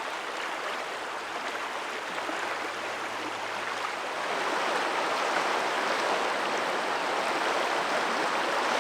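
River water rushing steadily over rocks, an even wash of noise that grows a little louder about halfway through.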